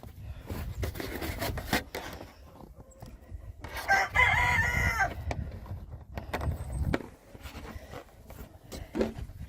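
A rooster crows once, a crow of about a second and a half near the middle, among knocks and rustling of movement in the chicken run.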